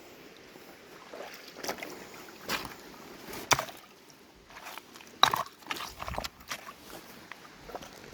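A person scrambling and splashing in a shallow river among rocks, with several sharp knocks and scrapes, the two loudest about three and a half and five seconds in: a slip and fall into the water.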